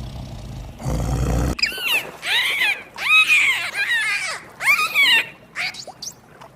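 A low rumble for about the first second and a half, then a run of about five short, high whining calls from a young animal, each rising and falling in pitch.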